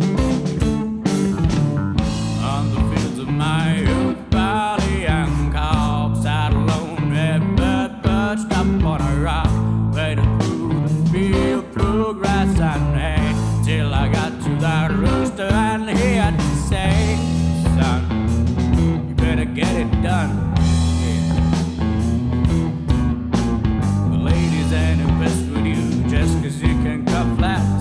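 Rock band playing an instrumental passage in a bluesy psychedelic-rock style: electric guitar over bass and drums.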